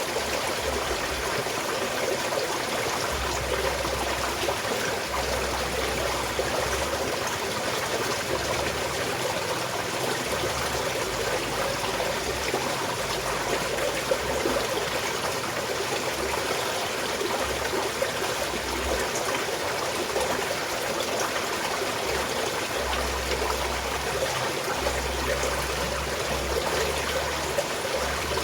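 A small mountain stream trickling and flowing steadily over rocks, as an even, unbroken rush of water.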